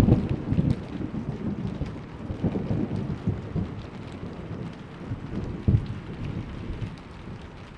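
Thunder rumbling with a few sharp crackles, dying away over steady rain; by near the end only the rain remains.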